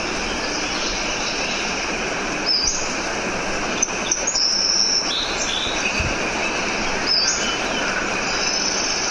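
Nature recording of a steady rush of water, likely surf, with birds chirping over it in short, high whistled notes several times from a few seconds in.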